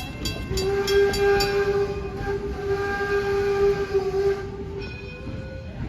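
Steam locomotive whistle blowing one long, steady blast about half a second in and lasting about four seconds, over the noise of the moving train.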